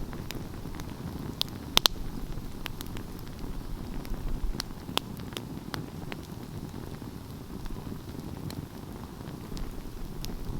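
Wood fire burning, with a low steady rumble and scattered sharp crackles and pops. The loudest is a quick double pop about two seconds in.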